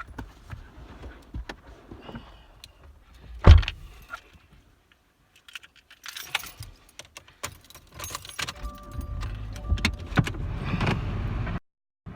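Jingling, clicking handling noises with one loud knock, then a steady low rumble that starts about two-thirds of the way through and cuts off abruptly near the end.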